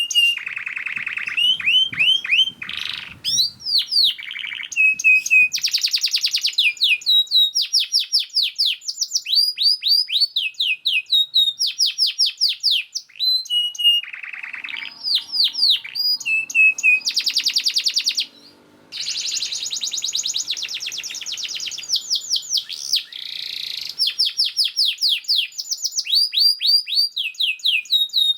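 Domestic canary singing continuously in fast, tightly packed rolling trills and rapid repeated up-and-down sweeps, phrase after phrase with only brief pauses, a 'gacor' (in full, constant song) male.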